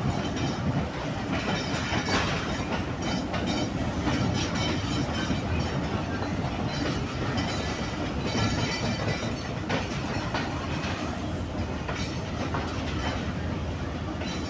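Passenger train wheels rolling over the rails as the train comes into the station, a steady rumble broken by occasional clicks over rail joints and points, with faint wheel squeal.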